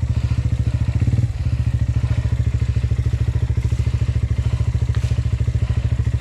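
Enduro dirt bike engine running at low revs with an even, pulsing beat; a little extra throttle eases off just over a second in and it settles to a steady low run.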